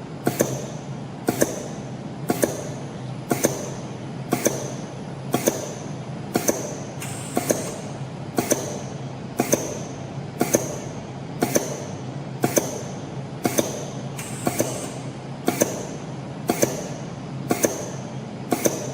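CNC spring coiling machine running, with a steady hum and a sharp double click about once a second, one per cycle as each fine-wire compression spring is coiled and cut off.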